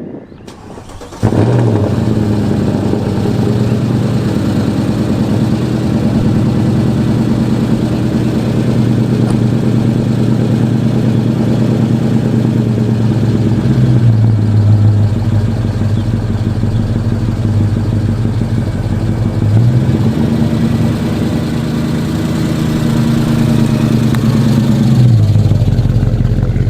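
Mercedes-AMG M156 6.2-litre V8 in a 2009 SL63 starting up about a second in, then running at low speed with a few brief changes in engine speed as the car is driven slowly into the bay. This engine has a valvetrain fault: its lifters tap from the driver's-side bank.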